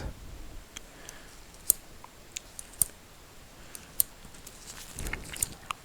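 About half a dozen light, sharp clicks scattered over a few seconds, close to the microphone, with soft rustling near the end.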